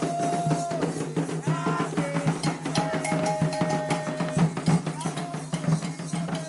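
Candomblé ritual music: atabaque hand drums beating a fast, dense rhythm under chanted singing with long held notes.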